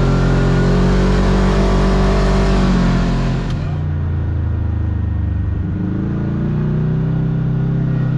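Kawasaki KRX side-by-side's engine running on the move. The engine note holds, eases off about three seconds in, then gradually builds again over the rest of the stretch.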